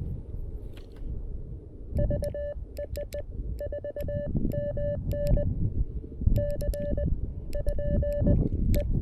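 Morse code from a CFT-1 QRP transceiver: one steady beep keyed on and off in dots and dashes, starting about two seconds in. A low wind rumble on the microphone runs beneath it.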